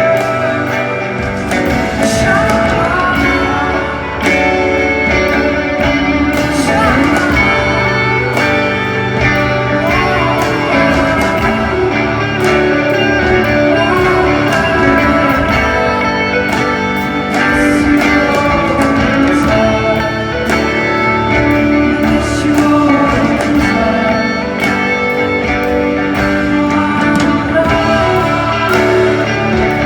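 Live band music led by guitars, playing a slow song, with a singer's voice at times.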